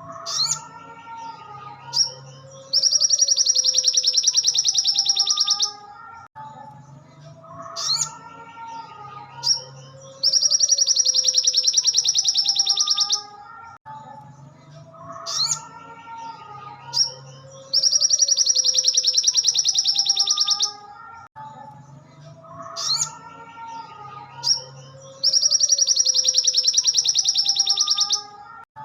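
Crimson sunbird (sogok ontong) song played on a loop: a few sharp high chirps, then a long, fast, high trill of about three seconds. The same phrase repeats about every seven and a half seconds, four times, over a softer, lower warbling line.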